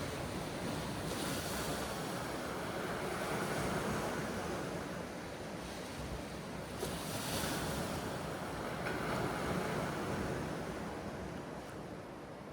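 Ocean waves breaking and washing ashore, the wash swelling every few seconds, with wind on the microphone.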